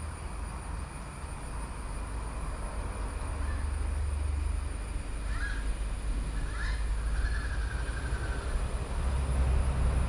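A few short bird calls about five and a half and seven seconds in, followed by a brief trill, over a steady low rumble that grows louder near the end.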